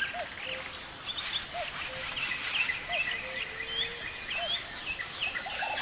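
A forest chorus of several birds: many short chirps and whistles, with a lower, repeated call about every 0.7 seconds. Under it runs a steady, high insect trill.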